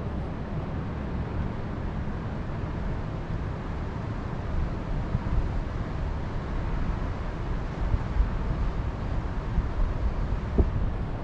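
Wind blowing in a mountain forest, with a low rumble of gusts on the microphone that grows gustier in the second half.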